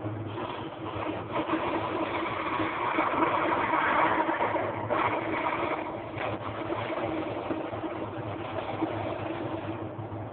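Wagner wallpaper steamer running, its steam hissing steadily with a low hum underneath, louder for a few seconds in the middle, as it melts the ice in a refrigerator's freezer.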